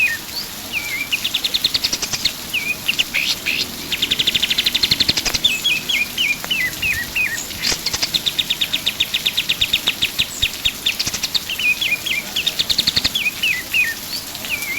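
Pied triller (kapas tembak) singing over and over. Strings of short hooked, down-slurred notes alternate with fast trills of rapidly repeated notes that climb in pitch, over a steady hiss.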